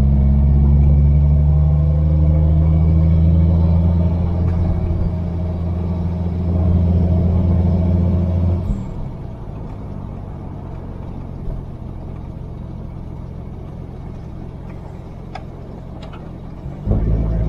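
1949 Rover P3's engine pulling steadily under throttle, its note rising slightly. About nine seconds in the note drops off sharply as the throttle is lifted, leaving a quieter engine and road noise as the car coasts and slows.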